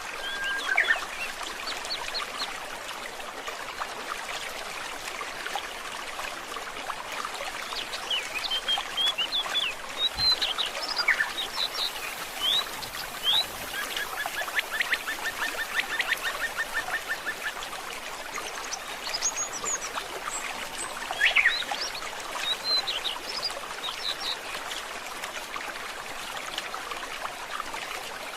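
A forest stream trickling and babbling steadily, with songbirds calling over it: scattered short chirps and whistles, and a rapid trill about halfway through.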